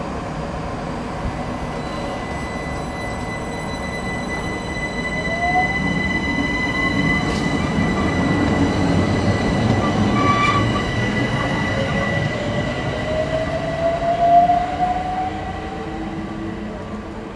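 Ten-car Class 376 electric multiple unit pulling out of the station and picking up speed: a rumble of wheels on rail with a steady high whine and two rising electric whines as it accelerates, loudest about ten and fourteen seconds in, then easing off as it goes.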